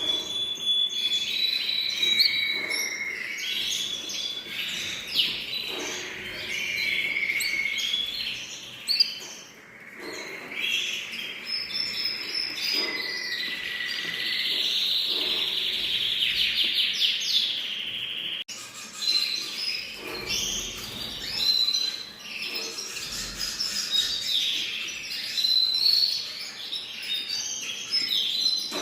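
Several songbirds singing at once: a dense chorus of overlapping whistles, trills and quick chirps, with abrupt breaks about a third and two thirds of the way in.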